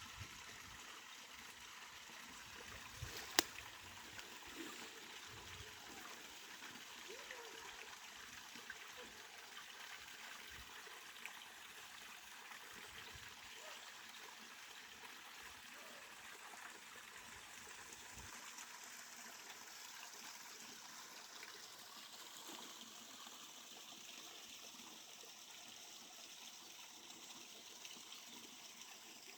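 Faint, steady running water of a forest stream or river, with a single sharp click about three and a half seconds in.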